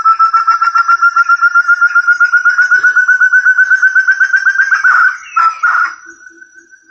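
Forest partridge (puyuh hutan) call used as a bird lure: a fast run of whistled notes, about ten a second, rising slowly in pitch. It ends in a few louder, harsher notes and then fades out.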